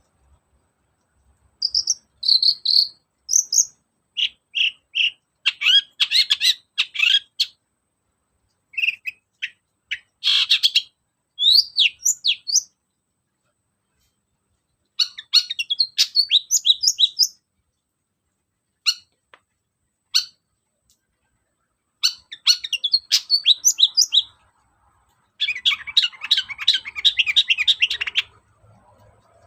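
Long-tailed shrike (cendet) singing in short bursts of fast chirps and sliding whistled notes, broken by pauses, with a longer run of rapid chattering near the end.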